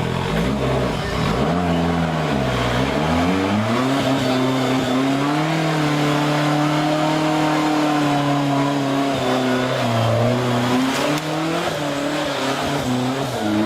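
Off-road 4x4 engine revving hard under load, its pitch sagging about two and a half seconds in, climbing back and holding high, then dipping briefly again near the end.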